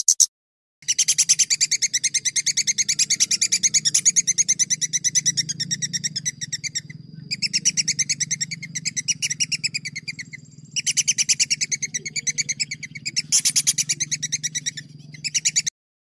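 A songbird's fast rolling trill of repeated sharp, high notes, about ten a second, in three long runs with short breaks. A steady low hum lies under it.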